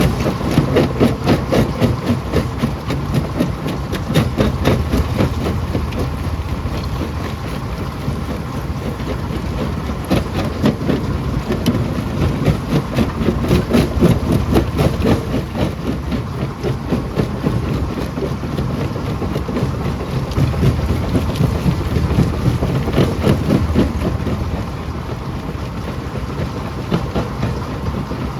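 A rock crusher running under load: a steady heavy rumble with a dense clatter of rocks cracking and knocking against each other and the machine.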